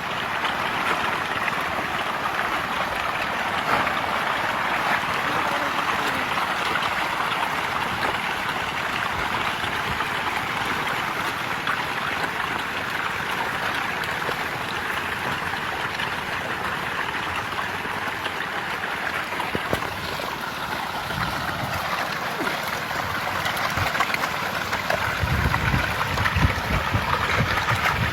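Steady splashing and churning of water, the sound of a mass of fish thrashing at the surface as they take feed. Low rumbles come in near the end.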